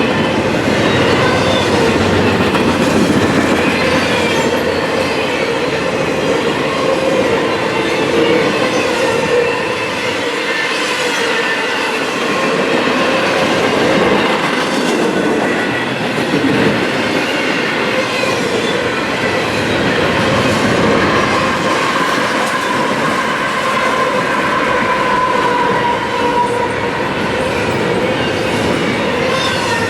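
Train cars rolling steadily past close by, wheels clattering over the rail joints, with steady high squealing tones from the wheels on the rail.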